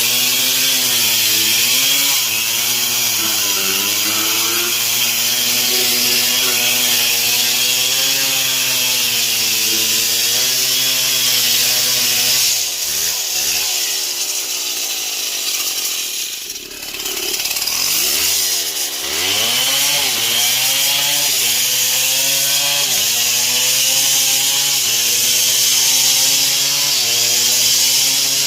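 Stihl MS 070 chainsaw's large two-stroke engine running at high speed while sawing wood, its pitch wavering with the load of the cut. About halfway through, the engine speed falls away almost to idle, then revs back up.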